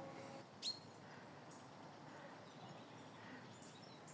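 Birds chirping faintly over quiet woodland air, with one sharper, downward-sweeping chirp about a second in.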